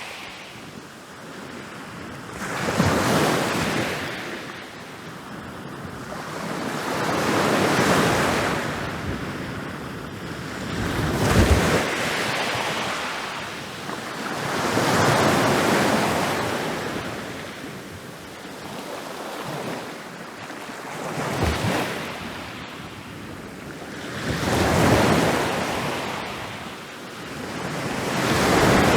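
Ocean waves rolling in and breaking on a beach, a swelling wash of surf that rises and falls away about every four to five seconds, some waves ending in a sharper crash.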